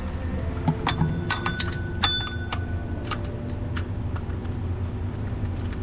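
Metal hand tool clinking against bolts on an engine during water pump removal: a few sharp metallic clinks that ring briefly about one to two and a half seconds in, then scattered light clicks. A steady low hum runs underneath.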